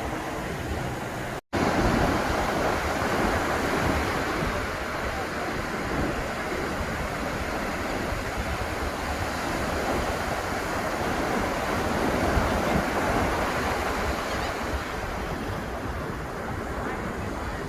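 Atlantic ocean surf washing steadily onto the beach. The sound cuts out completely for a moment about a second and a half in.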